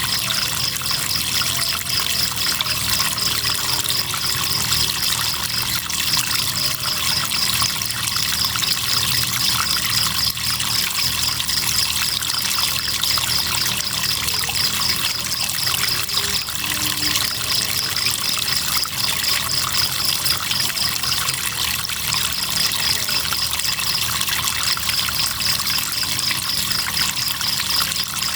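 River water trickling and running, with crickets chirping in a fast, steady, high-pitched pulse that breaks off briefly a couple of times.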